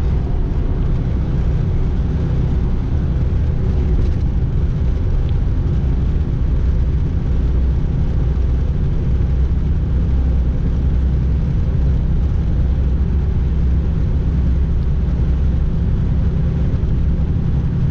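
Semi-truck's diesel engine running steadily as the truck drives along, a constant low drone with tyre and road noise.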